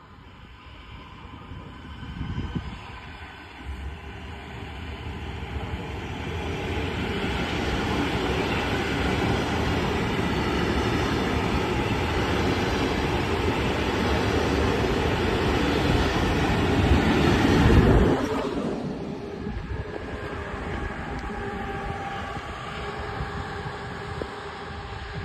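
Electric passenger train of white coaches running past close below, its wheels and carriages rumbling louder and louder as it goes by, then cutting off suddenly. A quieter, steady rail noise follows as a second train, hauled by a yellow SNCB electric locomotive, approaches.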